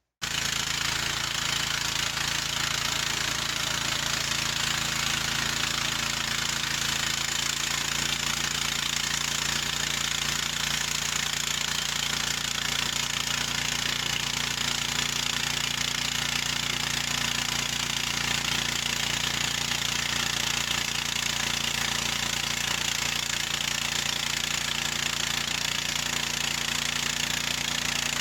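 Gasoline engine of a Harbor Freight bandsaw sawmill running steadily under a loud hiss, its pitch shifting slightly about seven seconds in.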